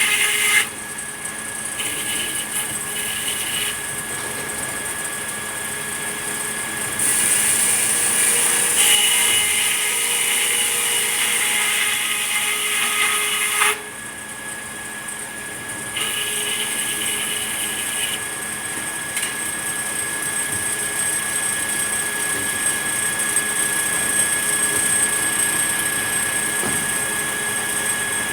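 Sawmill saw running continuously with a steady whine, cutting red pine. The high cutting noise drops off sharply about a second in and again about 14 seconds in, and picks up again a few seconds after each drop.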